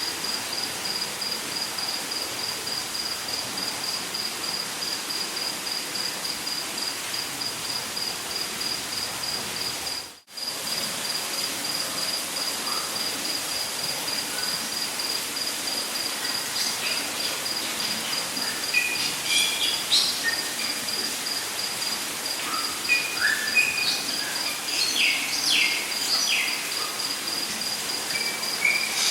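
Rainforest ambience: an insect trills steadily in fast, even pulses at a high pitch over a steady rush of water, and birds call in short chirps and quick whistles through the second half. The whole sound cuts out for a split second about ten seconds in.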